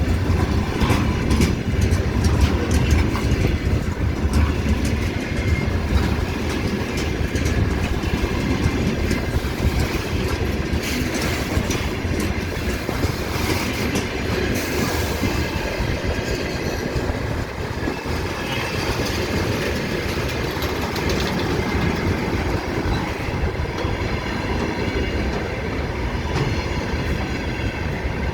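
Train rolling past on steel rails: a steady low rumble with wheels clattering over rail joints, and a brief high-pitched noise about halfway through.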